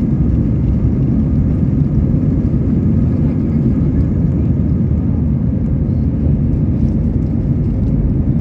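Airbus A320's jet engines running with a steady low rumble.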